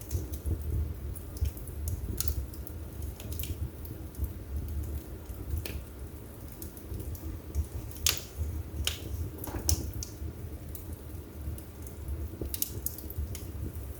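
Wood fire burning in a fireplace: a steady low rumble of flames with sharp crackles and pops of burning wood scattered throughout, the loudest pops a little past the middle.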